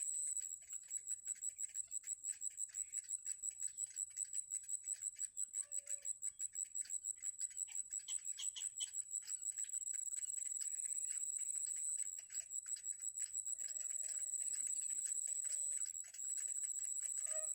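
A steady high-pitched insect trill that pulses fast, about six to seven beats a second, most strongly in the first half.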